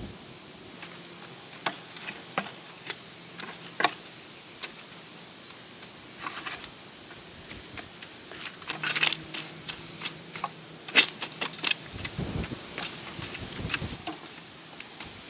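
Irregular clicks, scrapes and knocks of hand work on the ground around a wooden concrete form. They are sparse at first and busier in the second half, with a few low thuds near the end.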